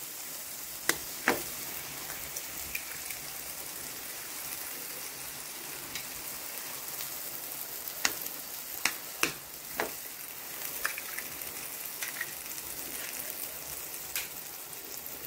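Onion-tomato masala frying steadily in oil in a pan, an even sizzle. Sharp taps as eggs are cracked against the pan and dropped in: two about a second in and several between about eight and ten seconds.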